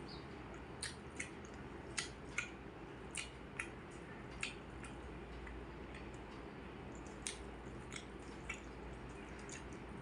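A person eating: chewing with sharp, irregular wet mouth clicks and smacks, about a dozen of them, over a steady low hum.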